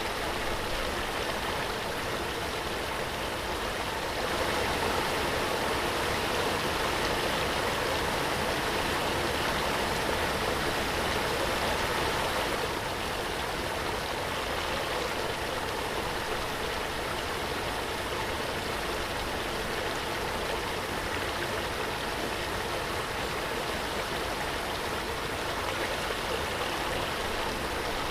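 Waterfall: a steady rush of falling, splashing water, a little louder from about four seconds in until about twelve seconds.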